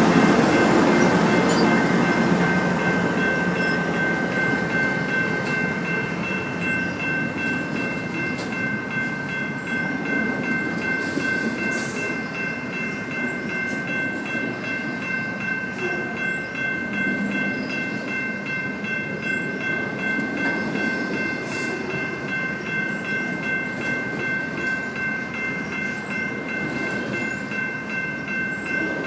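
A train rolling past on the tracks in a steady rumble, loudest at the start and easing off over the first few seconds. A steady high-pitched tone runs through it.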